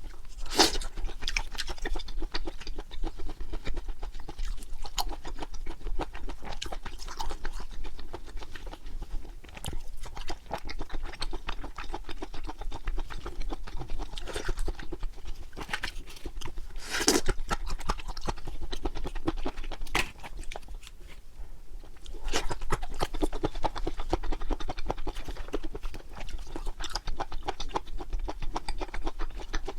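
Close-miked chewing of grilled pork intestines: a continuous run of wet, sticky mouth sounds and small smacks, with two sharper clicks, one just after the start and one about midway.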